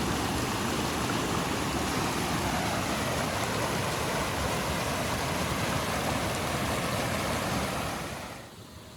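Blizzard wind: a steady, loud rushing noise that fades down about eight seconds in.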